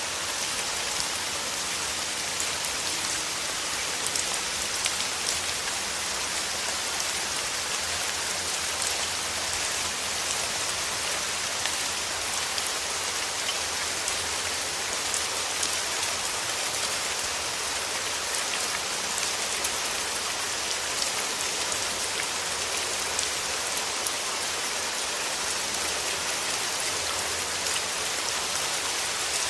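Steady rain falling, a dense even hiss of drops with frequent small, sharper individual drop hits.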